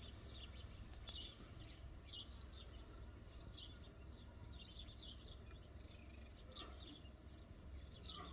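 Faint birds chirping: many short, high chirps repeating throughout, over a low steady hum.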